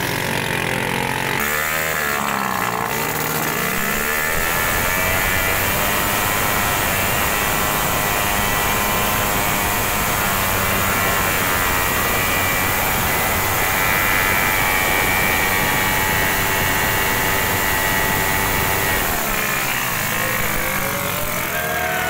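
Two chained motorcycles, one a Bajaj CT100 with its single-cylinder engine, running at high revs and pulling against each other in a tug-of-war. The engine pitch holds steady through most of the stretch and shifts near the start and end.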